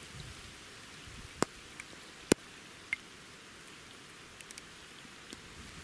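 Light rain: a steady soft hiss with a few sharp ticks of single drops striking close by, the loudest a little over two seconds in.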